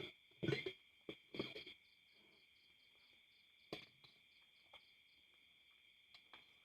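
Crickets chirring steadily in the background, with a fast faint pulsing above the main trill. A few short, sharp noises break in, the two loudest within the first two seconds and a few fainter ones later.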